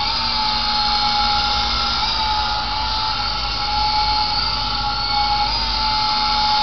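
Sky Rover toy remote-control helicopter in flight: the steady high whine of its small electric motors and spinning rotors, the pitch wavering slightly now and then.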